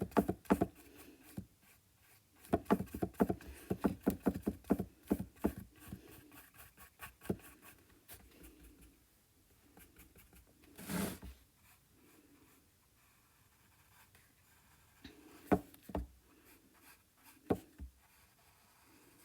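Paintbrush brushing acrylic paint onto a canvas: a quick run of short scratchy strokes over the first several seconds, then quieter. There is a brief louder rub about eleven seconds in and a few scattered taps near the end.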